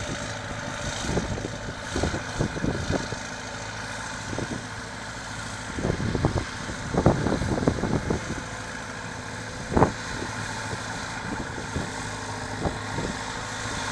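Marshall 802 tractor's diesel engine running steadily while pulling a three-furrow reversible plough. Irregular low thumps come over the engine, the loudest just before ten seconds in.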